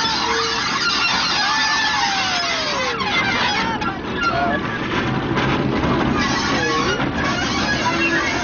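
Busy crowd noise, with many children's voices calling out and chattering, over a low steady hum from the diesel shunter's engine running.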